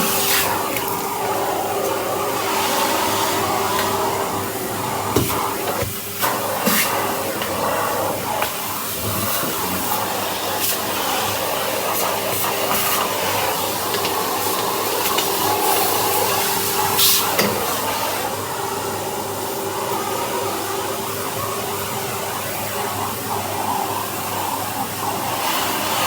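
Vacuum cleaner running steadily with a brush attachment, its motor holding one steady whine under the rush of air. A few sharp clicks and knocks come through it, around five to seven seconds in and again at about seventeen seconds.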